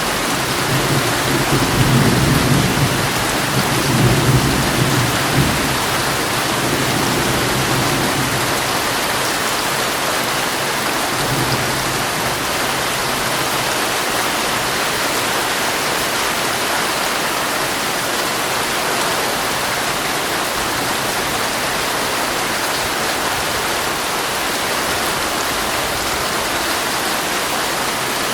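Heavy rain falling steadily on a tent, with a low rumble of thunder over the first several seconds that fades out, leaving an even hiss of rain.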